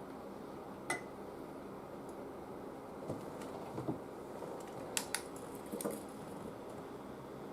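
Scattered small clicks and taps of hand tools on the TV chassis, over steady low background noise.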